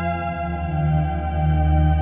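ESI Xsynth synthesizer playing a sustained, pad-like chord over a deep bass note, with the notes shifting right at the start and again about a second and a half in.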